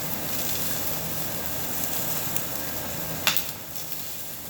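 Meat sizzling on a Korean barbecue table grill, a steady hiss, with one sharp click a little over three seconds in.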